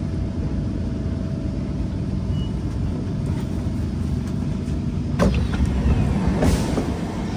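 Steady low rumble inside a Kawasaki C151 metro train, with a faint whine fading out over the first few seconds and two sharp knocks about five and six and a half seconds in.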